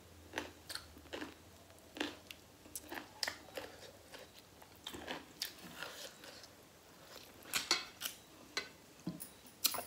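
A person chewing pork sekuwa and rice: irregular mouth clicks and crunches, about two or three a second, louder towards the end.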